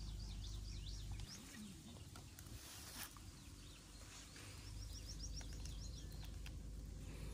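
Faint birdsong: quick runs of high, repeated chirps, heard near the start and again about five seconds in, over a low background rumble.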